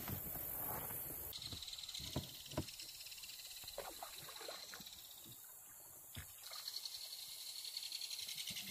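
Faint river ambience from a canoe: a steady high-pitched hiss, with scattered soft drips and light knocks.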